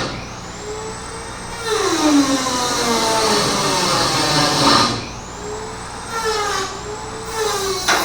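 A power tool running in two long bursts, winding down in the pauses between them.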